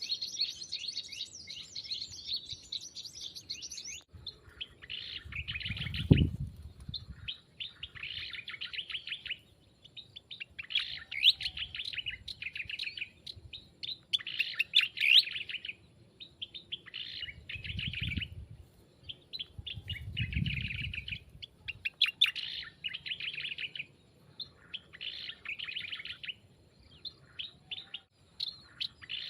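Small songbirds chirping in repeated bursts of rapid high twittering, each burst about a second long and coming every couple of seconds. A few low thumps sound beneath it, the loudest about six seconds in.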